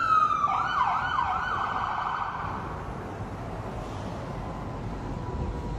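Emergency vehicle siren: a falling tone, then a few quick rising sweeps, fading out after about two seconds over steady background noise.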